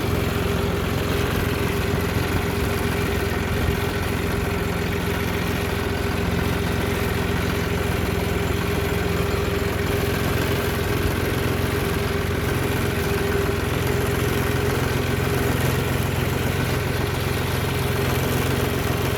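Motor vehicle engine running steadily, an even hum with no change in speed.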